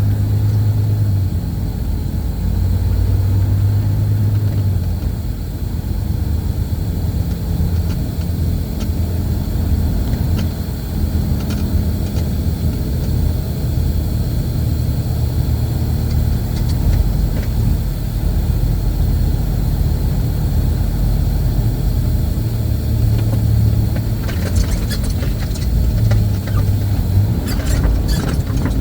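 Semi-truck diesel engine running steadily with a low rumble, a few light rattles near the end.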